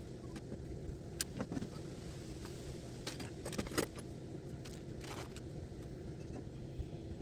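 A steady low rumble with scattered light metallic clinks and jingles, the loudest about a second in and again three to four seconds in.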